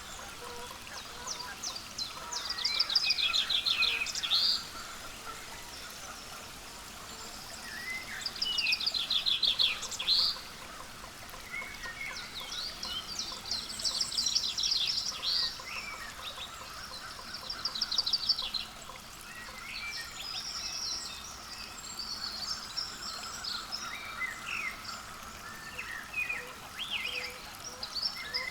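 Wild songbirds calling: several bursts of rapid high-pitched trills, each a second or two long, with scattered single chirps between them.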